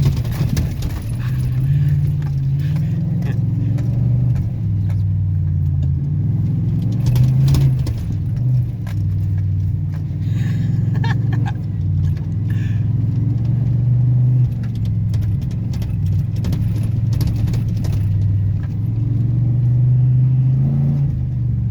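Pickup truck being driven hard: a steady engine and road drone whose pitch steps up and down as it speeds up and shifts, with loose clinks and rattles scattered through it.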